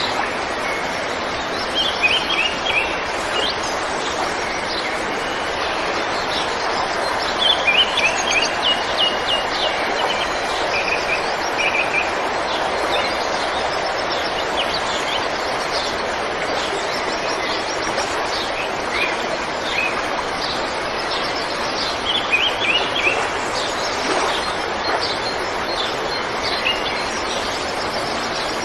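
River water running steadily, with small birds chirping over it in several short bursts of quick repeated high notes.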